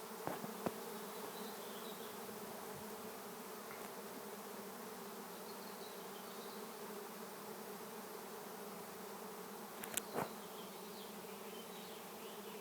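Steady buzzing hum of a large honey bee swarm in flight, the wingbeats of hundreds of bees blending into one drone. A couple of short sharp clicks come about ten seconds in.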